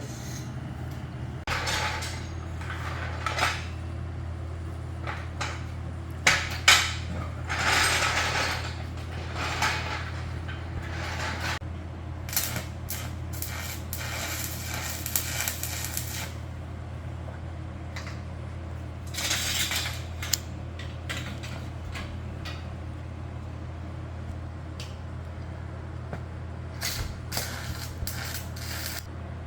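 Sheet steel being handled and bent into place: scattered metal clanks and knocks, with several longer rasping, scraping stretches. A steady low hum runs underneath.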